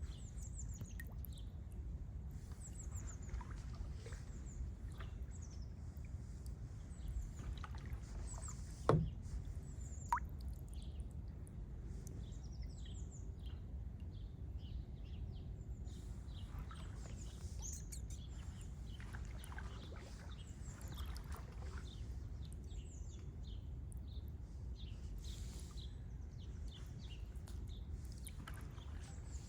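Wetland birds chirping and calling over a steady low rumble, with a sharp knock about nine seconds in and a lighter one a second later, typical of a paddle striking a kayak.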